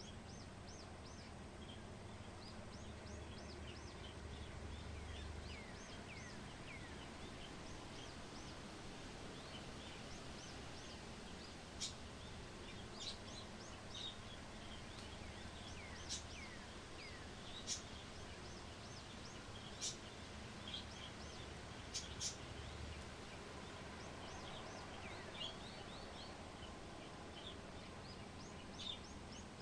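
Small birds chirping over and over in short, high, falling calls, over a steady low background rumble, with several sharp clicks through the middle.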